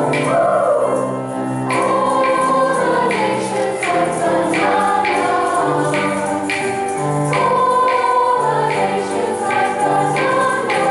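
Junior high choir singing sustained notes over a steady beat of accompaniment, about two beats a second.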